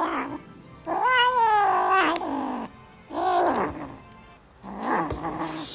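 A cat yowling in three long, drawn-out meows, each a second or more long and wavering in pitch.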